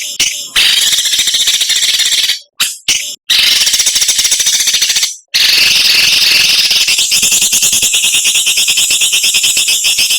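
Songbird giving a harsh, rapid, buzzing chatter (a 'besetan' phrase), high-pitched and fast-pulsed, broken by a few short pauses in the first half, used as a training recording to teach caged birds.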